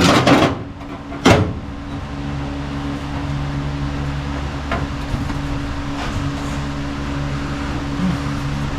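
A short scrape and then a single sharp knock about a second in as a sheet-steel floor patch panel is set into place in the car floor. A steady mechanical hum from the shop runs underneath.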